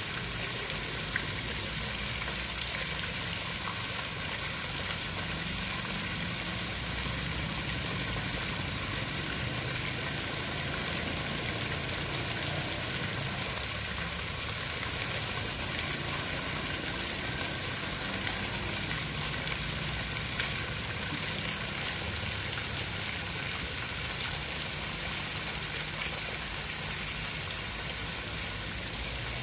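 Rain falling steadily in an even, unbroken hiss, with a low rumble underneath.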